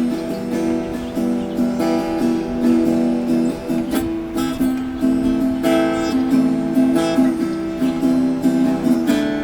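Outro music: strummed acoustic guitar.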